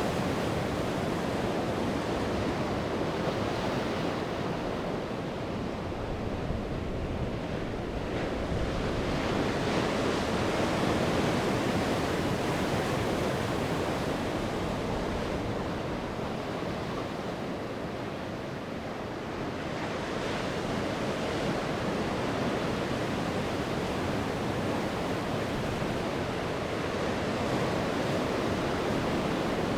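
Sea surf: waves breaking and washing up the shore in a continuous rush, swelling and easing twice.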